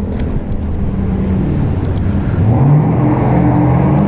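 A motor vehicle engine on the street accelerates, its note rising from about two and a half seconds in, over a steady low rumble.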